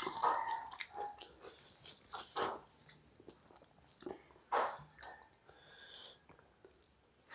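Close-up eating sounds: people chewing and smacking mouthfuls of rice and vegetable curry eaten by hand, with irregular mouth clicks.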